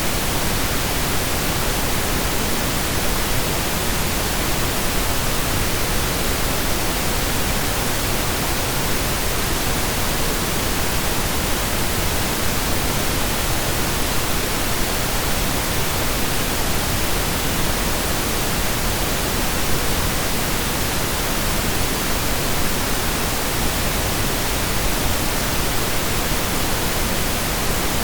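Steady synthesized pink noise: an even hiss spread evenly across the whole range, with no changes.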